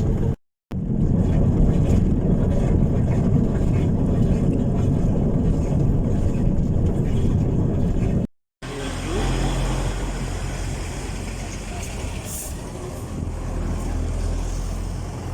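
An engine running with a steady low rumble, cut off to silence twice for a moment; after the second break the hum is steadier and more even.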